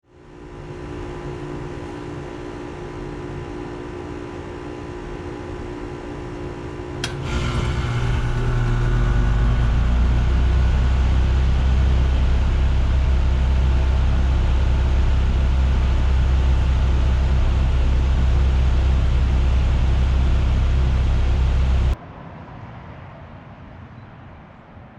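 1989 York Stellar heat pump outdoor unit starting in heat mode: a steady hum, then a sharp click about seven seconds in as the compressor and fan start, building to a loud, steady low drone. The drone cuts off suddenly near the end.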